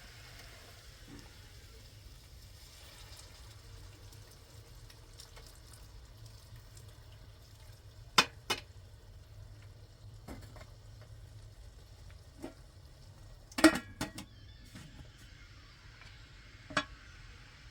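A few sharp knocks and clinks, like objects being handled or set down: two close together about halfway through, a louder cluster a little later and one more near the end, over a faint steady background hiss.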